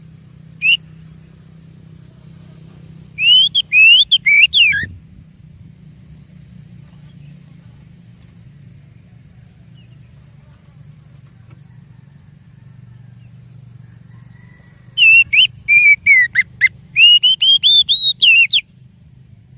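Oriental magpie-robin (kacer) singing: a single short note just under a second in, then a phrase of loud, quick whistled notes at about three to five seconds, and a longer phrase of varied whistles from about fifteen to eighteen and a half seconds, over a low steady hum.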